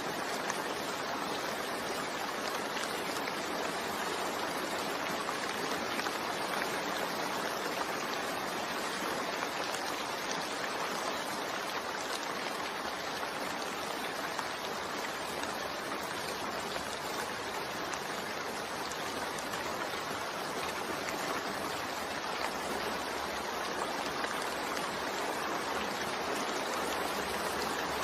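Steady rain falling, an even hiss with occasional louder drops.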